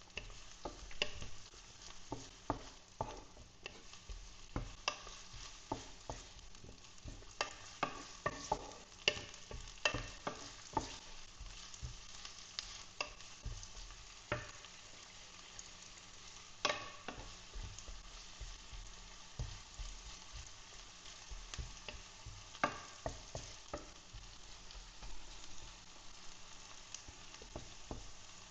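Chopped onion frying in hot oil in a pan, with a steady sizzle under irregular clicks and scrapes of a utensil stirring against the pan. The clicks come most often in the first half and thin out later.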